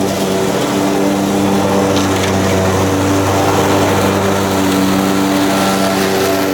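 Ride-on lawn mower engine running steadily at a constant speed.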